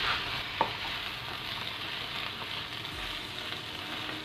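Fried rice with sauces sizzling in a hot pan as it is stirred, a steady frying hiss with one sharp click about half a second in.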